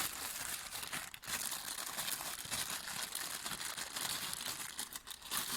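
Plastic packaging crinkling and rustling as the new washing-machine drain valve part is unwrapped.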